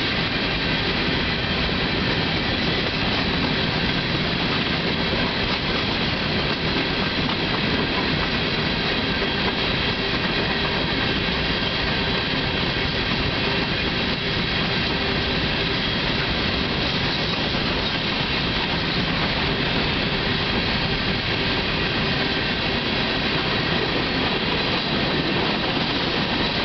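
Coal cars of a CSX freight train rolling steadily past on the track: a continuous, even rumble of steel wheels on rail.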